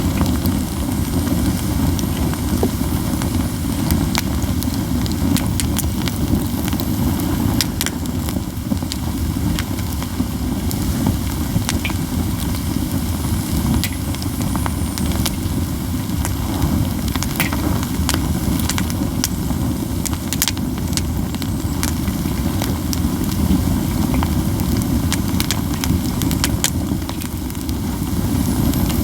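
A heap of pine cones burning in a campfire, crackling with many sharp pops and snaps over a steady low rumble.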